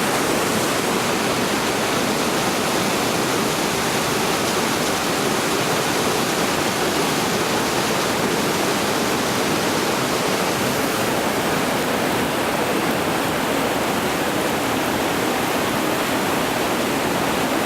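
Heavy tropical rain pouring down in a steady, loud downpour.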